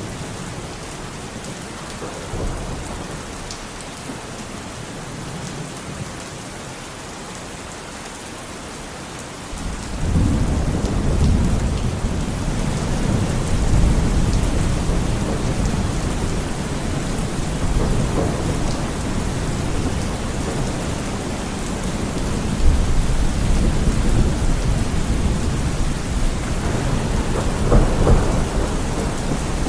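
Steady rain falling, with rolling thunder that sets in suddenly about ten seconds in and rumbles on, swelling again near the end.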